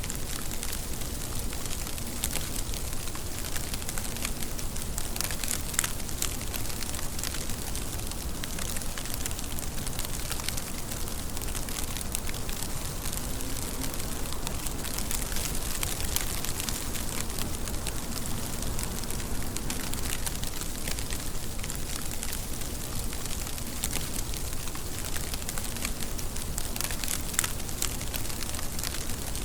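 Steady rain falling: a dense, even hiss of drops with many small sharp ticks of individual drops striking a surface.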